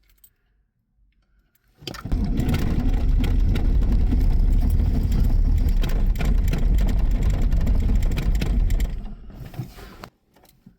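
Volvo D24 inline-six diesel cranked by its starter for about seven seconds, starting about two seconds in, without catching: a hard cold start in sub-freezing weather.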